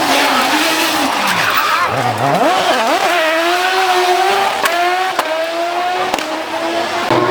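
Historic rally car's engine revving hard as the car slides sideways, its pitch dropping about two seconds in, then climbing back and holding high. A few sharp cracks come near the end.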